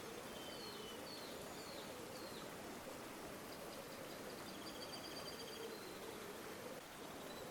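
River water flowing steadily, with small birds calling over it: a few short high chirps in the first couple of seconds and a rapid high trill around the middle.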